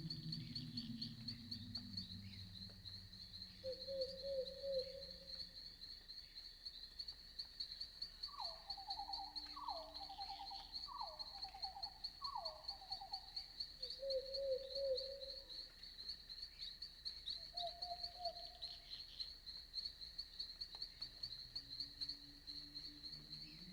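Night insects trilling steadily at a high pitch, with scattered short pulsed animal calls below them, among them four falling calls in a row about a third of the way in. A low sound at the start fades away within the first few seconds.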